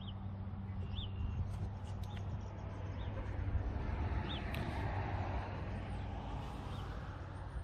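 Outdoor background with a steady low hum, and a small bird giving short high chirps every second or so.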